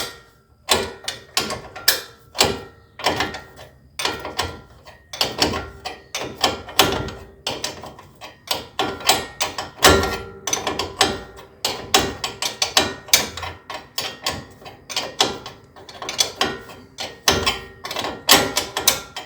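Hand wrench clicking and clanking on a suspension ball joint nut as it is turned off in short strokes, lifted off and refitted on the nut each time: a rapid, irregular run of metallic clicks with a faint ring.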